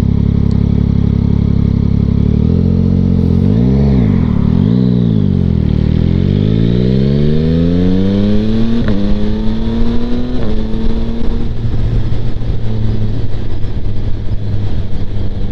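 2025 Yamaha MT-09's inline-three engine through a Kelpi Flanker exhaust: running steadily at low speed, dipping and picking up about four seconds in, then accelerating away with a long rising pitch broken by two upshifts, about nine and ten and a half seconds in, before settling to a steady cruise with wind noise. Heard from a microphone under the rider's helmet cheek pad.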